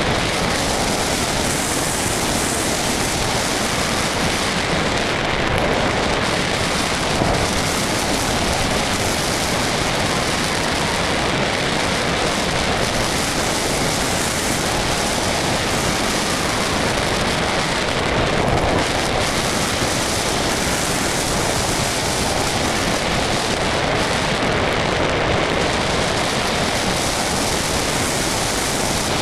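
Steady rushing wind noise on the microphone of a small camera carried on an RC model plane in flight, with no motor tone standing out.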